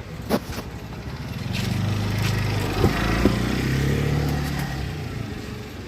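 A motor vehicle engine running, swelling in level toward the middle and then fading, with a few sharp clicks.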